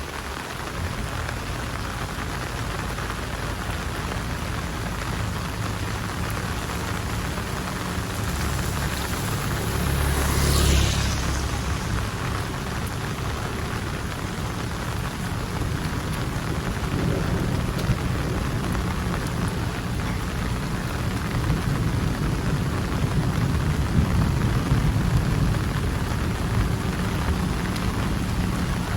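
Heavy rain falling steadily, with a brief louder swell about ten seconds in and a low rumble building in the second half.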